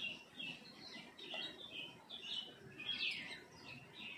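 Birds chirping in the background, short high chirps repeated about every half second.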